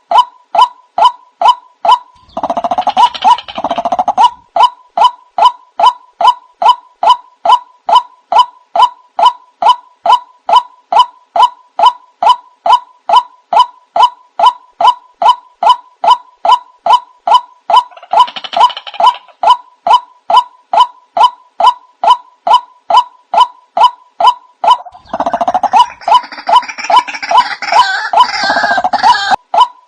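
White-breasted waterhen (ruak-ruak) lure call: a monotonous run of short, pitched "kwak" notes, about two a second. Three times it is overlaid by a harsher, noisier stretch of calling, the longest near the end.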